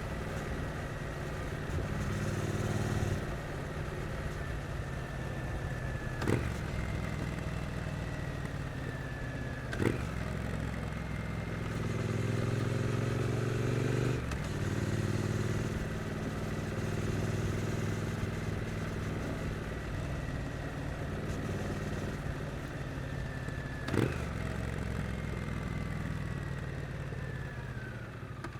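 Triumph Street Twin's 900 cc parallel-twin engine running through city riding, its note stepping up and down in pitch as the throttle opens and closes. Three sharp clicks come through along the way, and a thin whine falls in pitch several times.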